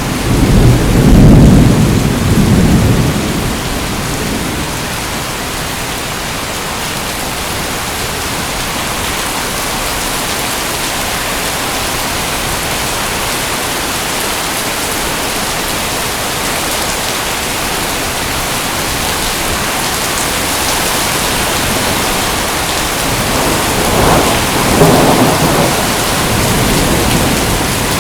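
Steady heavy rain with rolls of thunder: a low rumble in the first few seconds that dies away by about four seconds in, and another rumble near the end.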